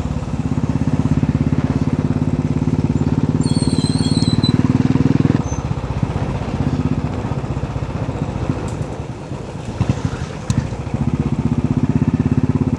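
Royal Enfield Bullet's single-cylinder engine exhaust through an aftermarket Indore silencer, a loud fast thudding while riding. The throttle eases off about five seconds in and opens again near the end. A brief high chirp sounds around four seconds in.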